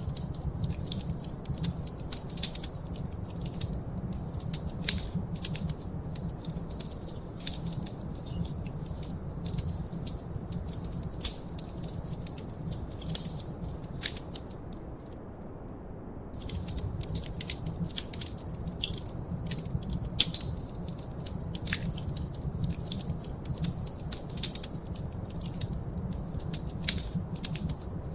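Wood fire crackling in a fireplace: frequent sharp pops and snaps over a steady low rumble. The crackling drops out for about a second and a half midway, then resumes.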